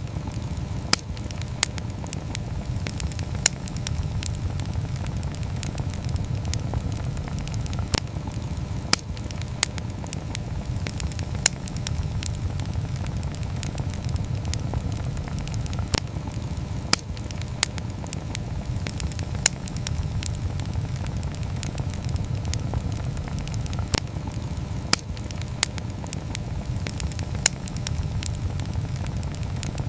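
Wood campfire burning: a steady low rumble with sharp crackles and pops from the burning wood at irregular intervals, about one every second or two.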